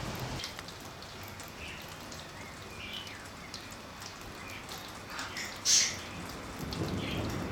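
Rain falling steadily during a summer thunderstorm, with scattered raindrop ticks and one sharp tap a little past halfway. A low rumble of thunder starts to build near the end.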